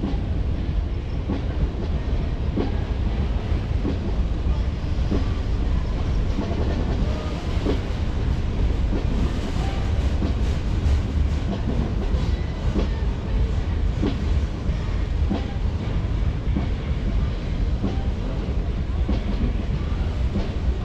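Freight train rolling past: a steady low rumble of the cars with repeated clacks of wheels over the rail joints.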